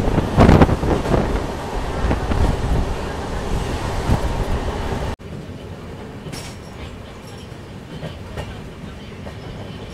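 Brindavan Express passenger train running at speed: a loud rumble and rattle of coaches on the track, with a louder clatter about half a second in. About halfway through it cuts abruptly to a quieter, steady running noise with a few faint clicks.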